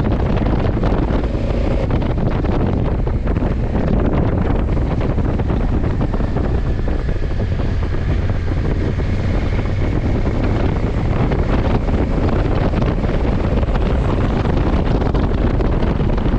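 Wind rushing over the microphone of a riding motorcycle, with the low drone of a Honda CRF1100 Africa Twin's parallel-twin engine underneath at a steady cruising speed.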